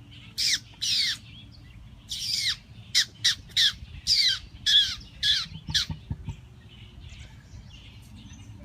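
A bird giving a quick run of harsh squawks, about a dozen, each call dropping in pitch, that stops a little past halfway.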